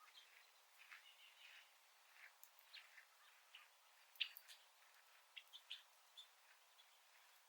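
Faint small-bird chirps and call notes, short and scattered at irregular intervals.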